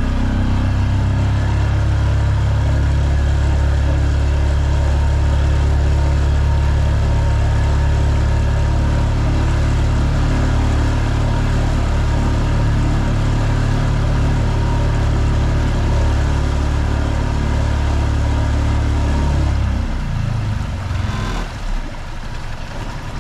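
Small pull-start auxiliary outboard motor running steadily at full throttle, pushing the boat, then throttled back about three seconds before the end, with a short click soon after.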